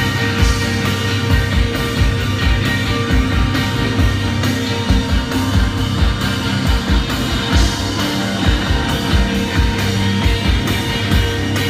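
Live rock band playing: distorted electric guitars sustaining over a steady drum beat.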